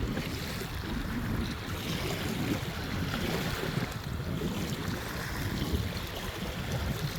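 Waves washing onto the beach with wind gusting over the microphone, a rumbling low buffet under a hiss of surf that swells and eases.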